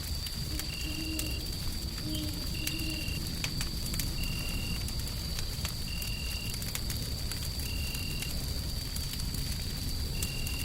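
Wood fire crackling in a hearth over a steady low rumble of white noise. A short high tone repeats roughly once every second, and a faint thin high whine holds steady.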